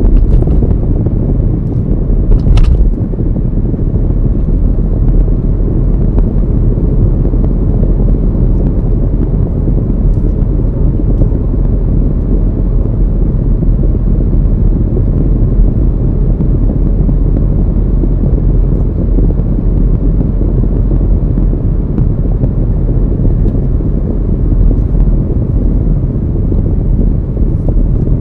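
Steady low rumble of a car driving, road and wind noise with no changes in engine pitch. A brief sharper knock or clack about two and a half seconds in.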